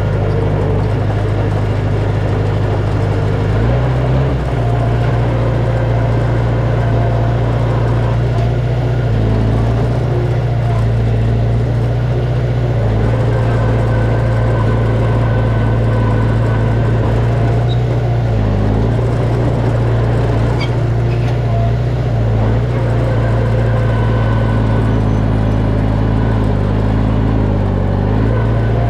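Heavy diesel engine of earthmoving machinery running steadily under work, its engine speed shifting slightly now and then.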